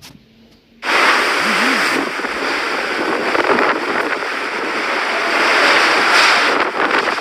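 A loud, steady rush of storm wind and water from the hurricane, starting suddenly about a second in.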